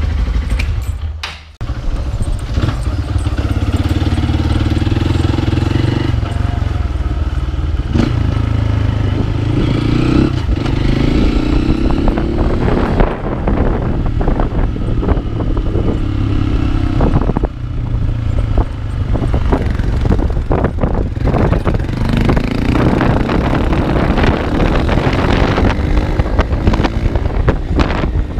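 Honda Bros 160 single-cylinder engine running through a cheap aftermarket exhaust that has no packing inside and is hollow. The bike is being ridden, and its note rises and drops several times as it accelerates and changes gear.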